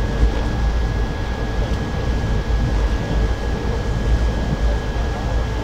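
Moving passenger train heard from inside the carriage: a steady rumble and rush, heaviest in the low end, with a faint steady whine above it.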